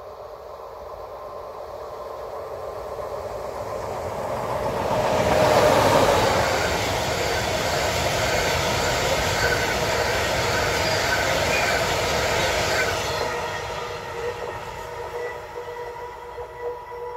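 Freight train hauled by an electric locomotive approaching, passing close by about five to six seconds in, then its wagons rolling past with a steady rumble and some high ringing tones from the wheels, fading away near the end as the train recedes.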